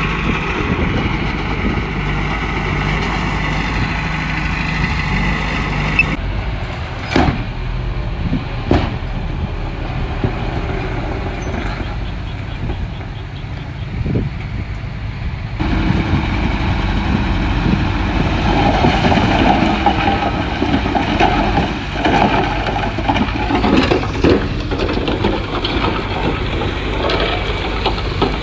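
Komatsu bulldozer's diesel engine running steadily under working load, with a few sharp knocks in the middle. The sound changes abruptly about six seconds in and again about halfway through.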